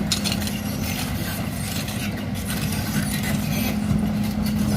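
Excavator's diesel engine running steadily, with irregular short knocks over it.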